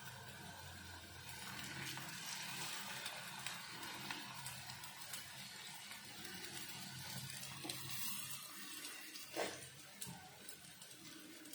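Corn and potato tikkis sizzling in oil in a frying pan, a steady hiss, with a sharp knock from a utensil about nine seconds in and a smaller click soon after.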